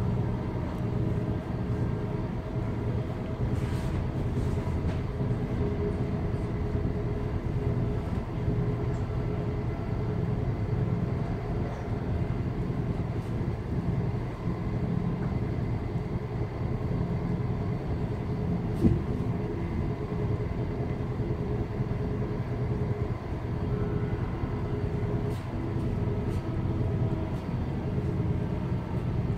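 Inside a Class 707 Desiro City electric multiple unit running along the line: a steady low rumble of the wheels on the track, with faint steady tones above it. A single sharp knock comes about two-thirds of the way through.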